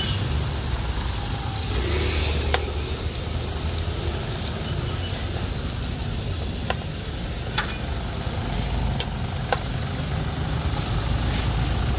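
Battered bananas frying in butter in a pan, a steady sizzle with a few sharp clicks as wooden tongs turn them, over a low rumble of street traffic.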